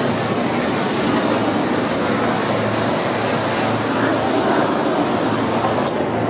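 Steady whirring of a group of Parrot quadcopters in flight, their small rotors making a dense noise with a thin high whine. The high hiss drops away abruptly near the end.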